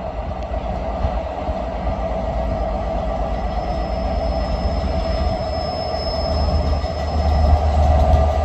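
Diesel-hauled train running through the station, a steady rail noise with a ringing hum, growing louder near the end as it comes closer.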